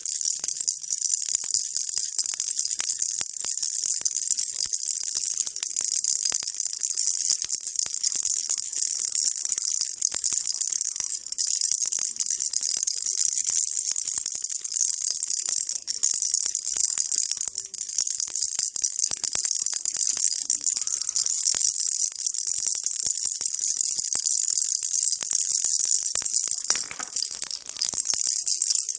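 Baby rattle shaken continuously: a dense, steady, bright patter of tiny clicks with no pauses, used as white noise.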